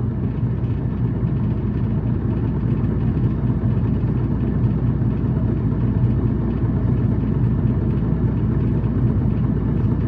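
Tokyu city bus H854 heard from inside while driving: a steady, low-pitched engine and drivetrain hum with road noise, swelling slightly in the first few seconds. This is the unit known for running at high revs with an abnormal noise.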